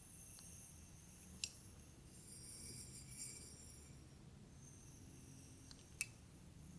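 Faint hair-play sounds: soft high rustling in patches, with two sharp light clicks, one about a second and a half in and one near the end.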